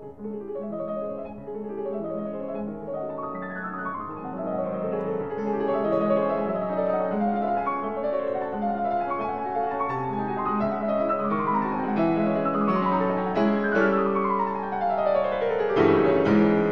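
Solo piano music, played with rippling runs of notes that sweep downward several times, the last and loudest near the end.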